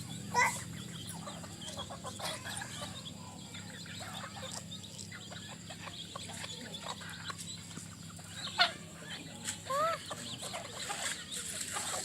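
Chickens clucking while feeding on rice, with many short scattered calls and pecks. Two louder sharp sounds, one just after the start and one about two-thirds of the way through.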